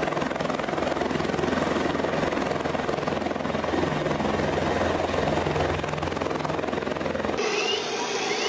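Steady engine drone under a rushing noise, like an aircraft in flight. About a second before the end it cuts off abruptly to a different sound with high gliding cries.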